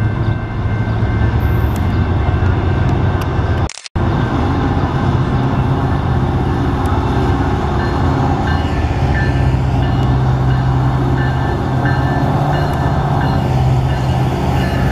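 Norfolk Southern freight train's EMD diesel locomotives drawing near and passing, with a loud, steady low engine drone and rail noise. The sound cuts out for a moment just under four seconds in.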